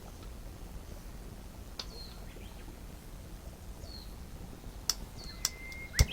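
Short, high bird chirps that fall in pitch, heard about three times over a steady outdoor background, with a few sharp clicks; the loudest click comes just before the end.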